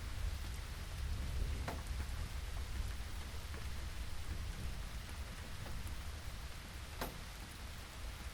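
Steady rainfall, with single drops landing close by as sharp ticks, two of them standing out about two seconds in and near the end, over a constant low rumble.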